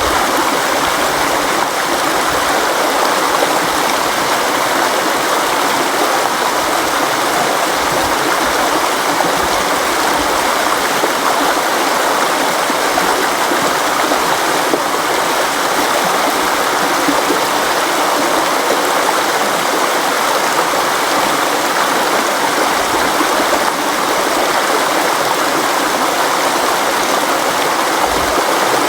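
River water flowing over rocks, a steady, even rushing.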